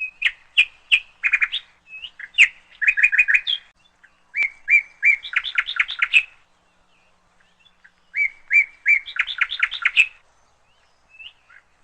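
A bird singing: three phrases of quick, repeated chirps and trills, with short pauses between them.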